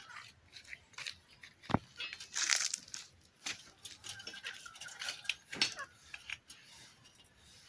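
Irregular rustling, tapping and clicking of materials being handled, with a sharp click about two seconds in and a brief louder tearing or scraping rustle just after.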